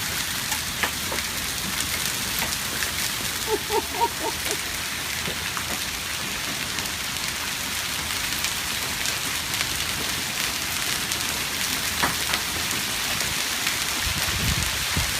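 Heavy rain mixed with hail, a dense steady hiss with many sharp ticks of stones striking a hard surface. A few short pitched blips sound about four seconds in, and a low rumble comes near the end.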